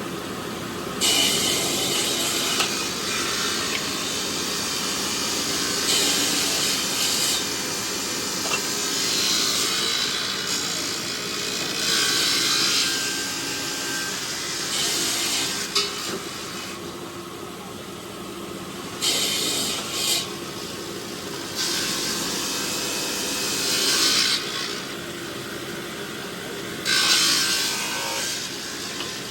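Stone-cutting machinery running with a steady hum, with repeated one-to-two-second spells of loud, hissing, high-pitched cutting noise about every three to five seconds.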